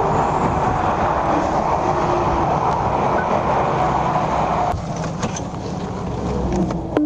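Steady road and engine noise of a car travelling at speed. It eases a little about five seconds in.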